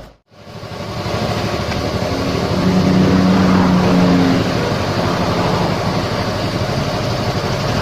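A motor vehicle engine running steadily, with a hum coming through in the middle. It is cut in abruptly after a brief dropout at the start.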